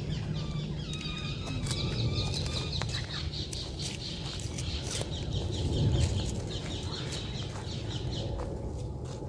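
Birds calling in quick, busy chatter, with rapid repeated high chirps through most of the stretch over a steady low rumble of wind or distant traffic.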